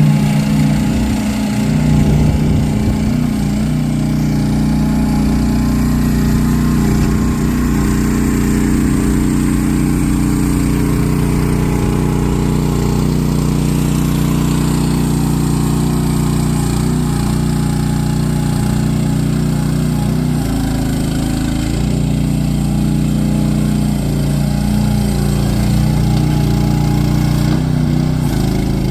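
Small engine of a mini ride-on skid steer loader running steadily at a constant speed.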